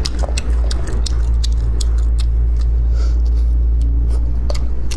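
Wet chewing and mouth clicks from eating peeled spicy crayfish tails, many sharp irregular clicks, over a loud steady low hum.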